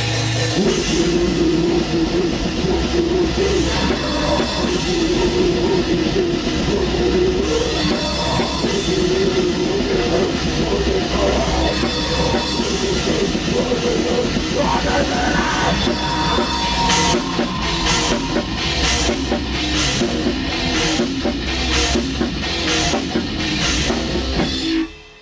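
Black metal band rehearsing live, with guitar and drum kit playing loud and dense. From a little past halfway, hard accented hits come about twice a second. The band then stops abruptly near the end.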